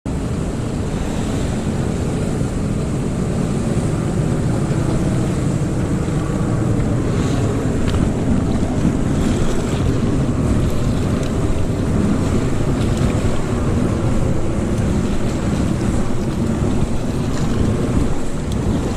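Steady wind buffeting the microphone, a low rumble, over the wash of sea waves.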